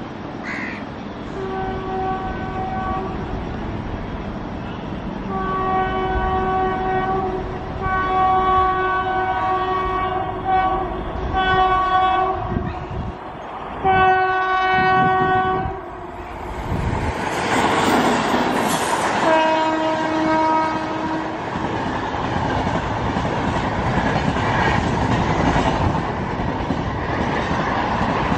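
An Indian Railways electric locomotive sounds its horn in about six long blasts as it approaches at speed, then rushes past. A final horn blast comes at a lower pitch, and the passenger coaches run by with a steady rolling rumble and wheels clacking over the rail joints.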